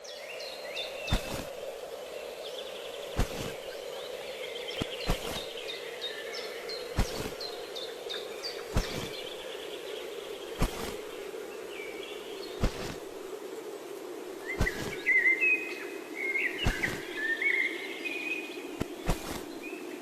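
Wild birds chirping and calling over a steady low hum, the birdsong busiest in the last few seconds. A sharp click sounds about every two seconds.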